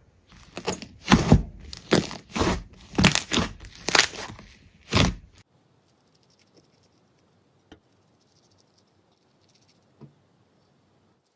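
Slime being squeezed and pressed by hand, giving a quick run of loud, sharp crackles about twice a second. The sound cuts off suddenly about five seconds in, leaving only a couple of faint clicks.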